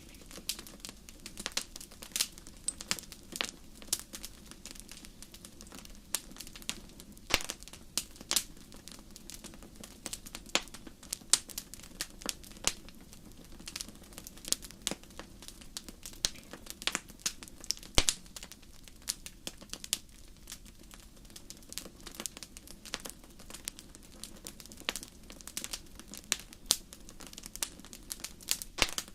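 Wood fire crackling in a fireplace: irregular sharp pops and snaps, several a second, over a steady low hiss, with the loudest pop about eighteen seconds in.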